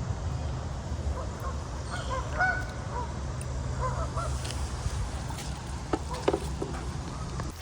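Geese honking, a run of short calls in quick succession, over a low steady rumble. A few sharp knocks sound near the end.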